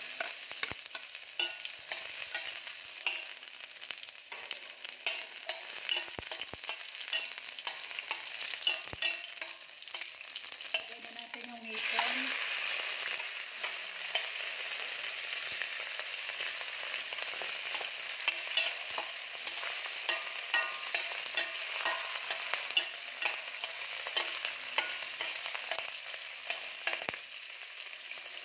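Garlic and onion sizzling in hot oil in a stainless-steel pan, with a metal spatula scraping and tapping against the pan. About twelve seconds in, the sizzle suddenly grows louder as raw shrimp go into the pan. The shrimp are then stir-fried, sizzling steadily with frequent spatula clicks.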